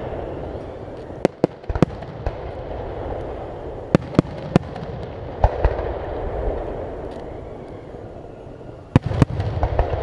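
Aerial firework shells bursting: sharp bangs, some single and some in quick pairs, about nine in all, with the loudest pair near the end. A continuous din fills the gaps between the bangs.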